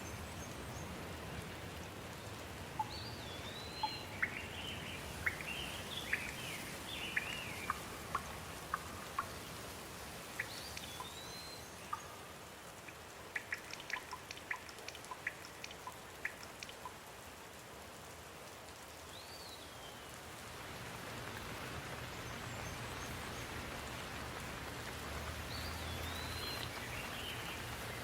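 Steady rain falling, with drops clicking sharply on a surface in a flurry in the middle and the rain growing heavier about two-thirds of the way through. A bird calls several times over the rain in short whistled phrases that rise and fall.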